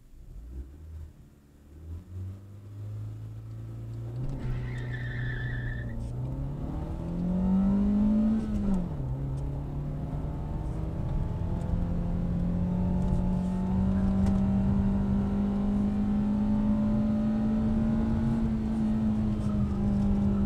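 Mitsubishi Lancer 1.3's four-cylinder engine, heard from inside the cabin, pulling away from a standstill, with a brief high tyre squeal about four to six seconds in. The revs climb until about eight seconds in, drop suddenly at an upshift, then hold high and steady under full throttle.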